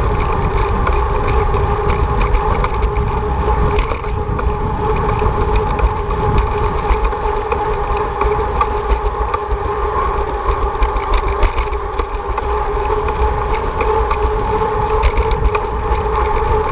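Wind buffeting the microphone of a moving bicycle, with a steady hum from the tyres rolling on the road.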